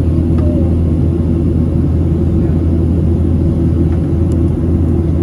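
Steady, loud low rumble inside the cabin of a Boeing 737-700: its CFM56-7B jet engines and the airflow over the fuselage, with a constant drone.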